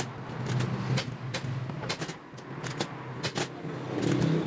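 Irregular sharp clicks, a couple a second, over a steady low hum.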